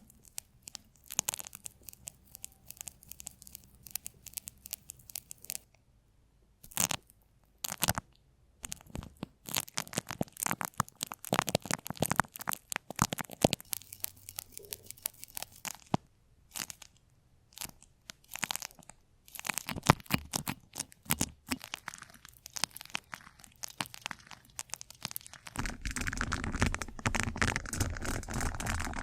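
Close-miked crackling and clicking in uneven bursts, like something crisp being handled, scratched and crinkled, with short pauses between. About three-quarters of the way through a steady rushing noise comes in and grows louder.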